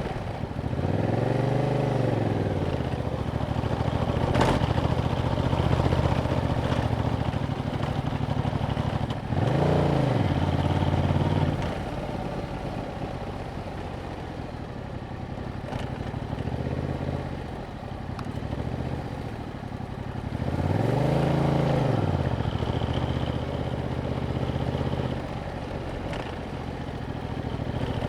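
2021 Yamaha MT-07's parallel-twin engine through its stock exhaust, ridden on the road. The engine note rises and falls three times, about a second in, around ten seconds in and past twenty seconds, as the bike accelerates and eases off, with steadier running in between.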